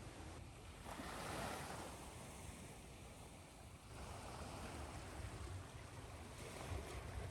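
Ocean surf recording: waves washing in, one swell building about a second in and another about four seconds in, over a steady hiss of white noise.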